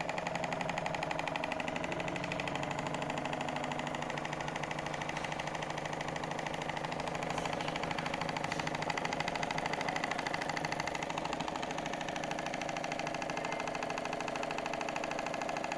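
Small model Stirling engine running steadily, a fast, even mechanical rattle that holds the same speed throughout.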